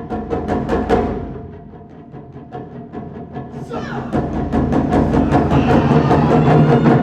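Japanese taiko drums played by an ensemble in rapid strokes. The playing softens about a second and a half in, then builds back up, louder and faster, from about four seconds in.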